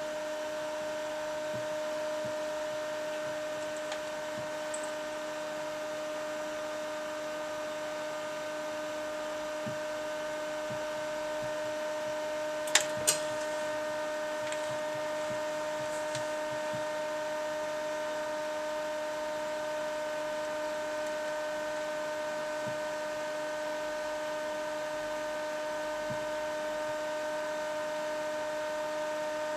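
Steady electrical mains hum with several overtones. Two sharp clicks come close together about 13 seconds in, with a few faint taps here and there.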